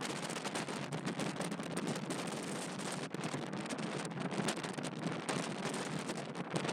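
Strong wind buffeting the microphone in irregular gusts, a rough, fluttering rush with no steady tone.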